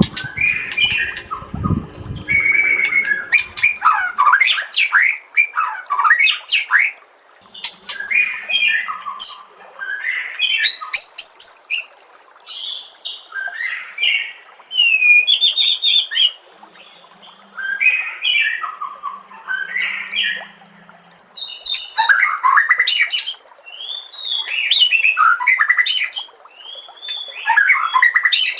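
White-rumped shama (murai batu) singing: a run of fast, varied phrases of rising and falling whistles, trills and harsh notes, in bursts of a second or two with short pauses. A few low thumps in the first few seconds.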